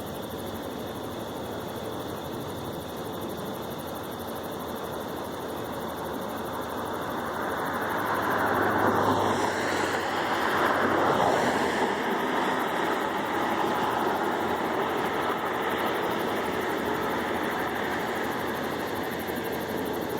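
Aircraft passing overhead: a steady engine noise that grows louder over several seconds, peaks about halfway through, then eases a little.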